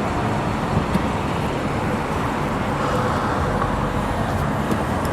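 Steady vehicle noise: an even low rumble with hiss, and no distinct events.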